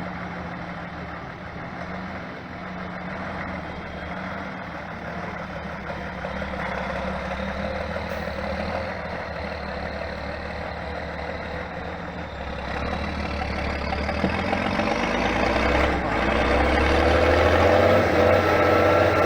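Heavy off-road trial truck's diesel engine running, growing louder about two-thirds in as it revs up and comes closer.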